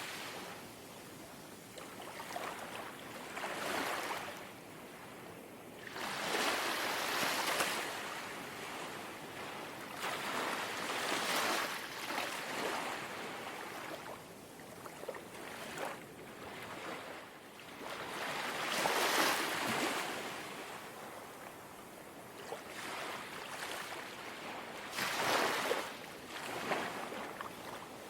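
Small, gentle sea waves lapping on the shore: a soft wash that swells and ebbs every few seconds, with the fullest surges about a quarter of the way in, around two-thirds of the way through, and near the end.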